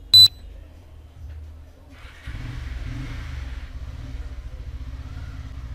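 A single short, loud, high-pitched electronic beep, followed about two seconds later by a steady low machine hum with a brief hiss over it.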